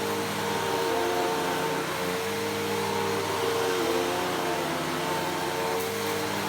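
Bissell PowerForce Helix Turbo upright vacuum cleaner running steadily, its motor whine wavering slightly in pitch over the rush of air.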